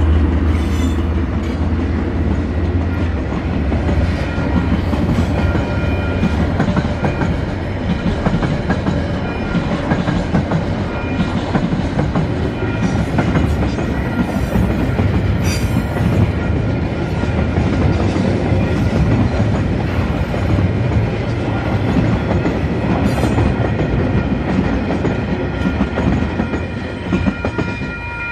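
A freight train passes close by. For the first few seconds the deep drone of its lead diesel locomotives dominates, then a long run of wagons, log wagons among them, rolls past with steady wheel rumble and clatter. The level crossing's electronic bells ring underneath as steady tones, heard more clearly near the end as the train noise eases.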